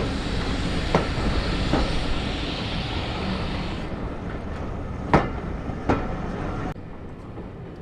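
A train running past: a steady rumble with sharp, irregular clicks of wheels over rail joints, and a hiss that stops about four seconds in. The sound drops away suddenly near the end.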